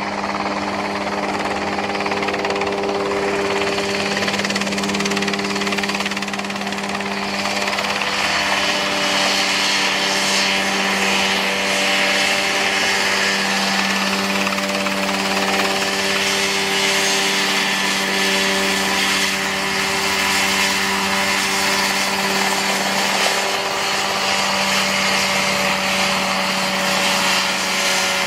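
Home-made Mosquito ultralight helicopter running steadily: an even engine drone at a constant pitch with a whirring rush above it, a little louder from about eight seconds in.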